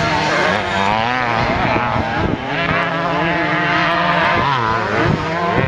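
Several vintage motocross motorcycle engines racing at once, revving up and down as the riders work the throttle.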